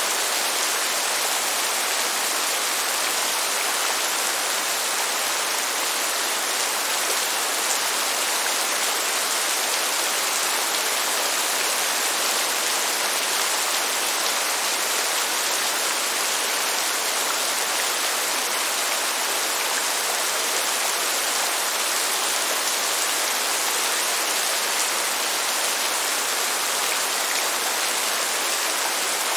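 Steady rain, an even hiss that does not change, with no thunder.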